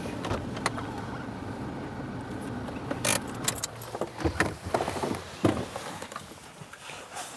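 Vehicle engine idling with a steady low hum that fades out about three to four seconds in. From about three seconds in, a series of sharp clicks and rattles follows.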